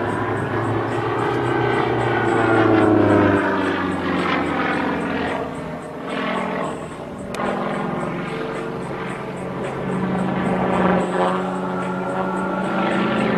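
Sukhoi Su-31 aerobatic plane flying, its nine-cylinder radial engine and propeller running continuously, with the engine note rising and falling in pitch as it manoeuvres.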